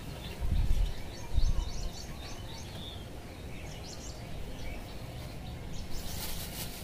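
Birds chirping in short, repeated high calls over a steady outdoor background. Two brief low rumbles come about half a second and a second and a half in.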